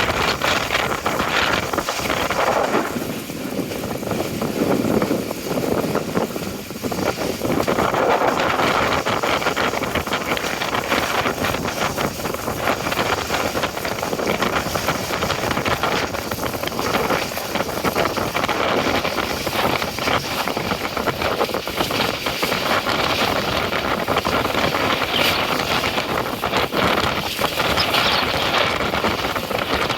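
Strong wind blowing across the microphone, with water rushing past a sailboat's hull as it sails fast in a rough, choppy sea. The noise is loud and steady throughout, swelling and easing with the gusts and waves.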